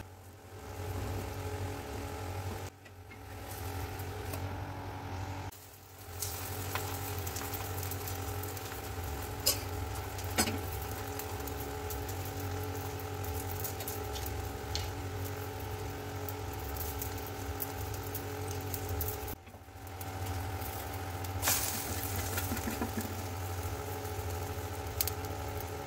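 Egg omelette sizzling in oil on a flat griddle pan as it browns, over a steady low hum. A couple of sharp clicks come about ten seconds in.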